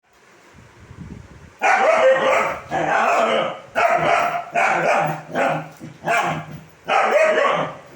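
Seven-month-old Kombai puppy barking loudly, about seven drawn-out barks in a row starting about a second and a half in.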